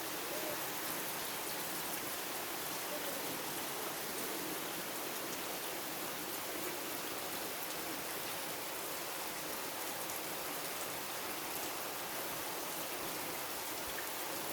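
Heavy rain falling steadily, a dense even hiss of rain hitting surfaces.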